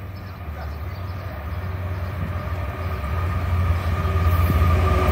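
CSX diesel freight locomotive approaching on the track, its low engine rumble growing steadily louder as it nears.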